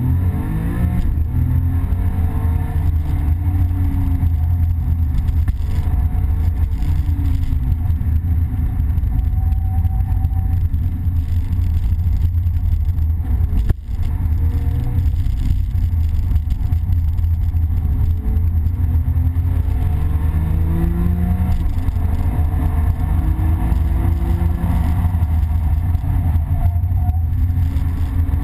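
Porsche 911 Carrera GTS's flat-six engine heard from inside the cabin, revving up again and again under hard acceleration and dropping back as the PDK dual-clutch gearbox snaps through its shifts, over a heavy low road and wind rumble. A brief sharp click with a momentary dropout about fourteen seconds in.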